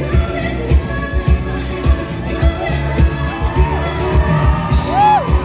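Live pop concert music over a loud PA with a steady kick-drum beat, with the crowd singing along and cheering.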